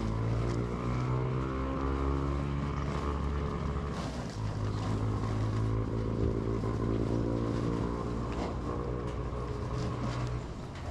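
An engine running steadily, its tone changing about four seconds in and dropping away near the end.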